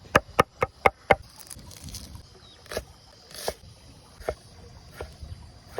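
A quick run of six sharp knocks in the first second, then single knocks about a second apart.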